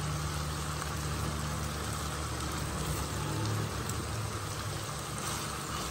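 Chicken drumsticks sizzling steadily in thick masala in a frying pan, with a faint low hum underneath.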